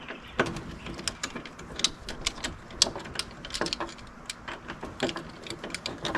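Irregular sharp metallic clicks, several a second, from a hand tool working the last door screw out of the UTV door, with a few brief low hums between them.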